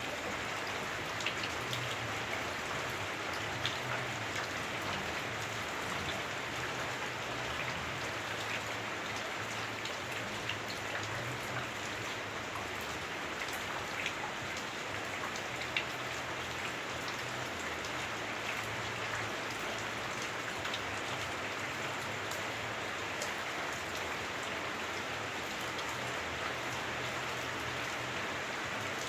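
Heavy rain falling on a house roof, heard from inside: a steady, even hiss with scattered individual drops ticking through it.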